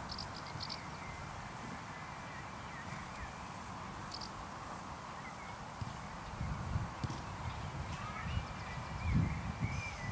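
Outdoor ambience with small birds chirping over a steady hiss. Low thudding rumbles come in during the second half and are loudest near the end.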